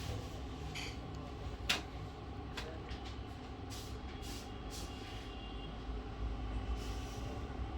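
Steady low background rumble with one sharp click just under two seconds in and a few fainter ticks.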